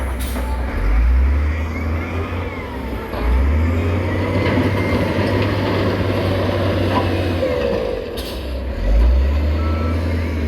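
Heavy diesel construction machinery working, its engine running with a low drone and revving up under load three times, with a reversing alarm beeping.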